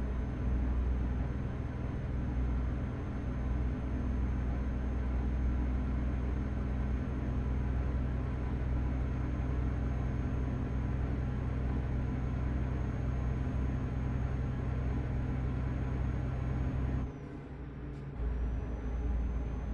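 Truck engine running steadily, heard from inside the cab, with a low drone that dips out briefly near the end, followed by a single click before it picks up again.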